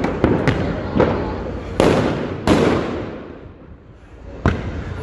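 Fireworks exploding outdoors: a string of sharp bangs. Several small ones come in the first second, louder ones follow about two and two and a half seconds in, and another comes near the end. Each trails off in a long echo.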